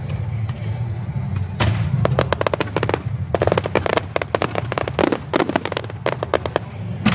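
Fireworks crackling in dense rapid runs of sharp pops that start about a second and a half in and come back in clusters, over music playing for the display.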